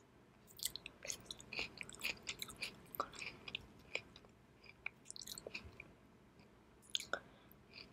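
Close-miked mouth chewing sashimi: a run of soft, wet smacks and clicks for about five seconds, then a pause and a few more near the end.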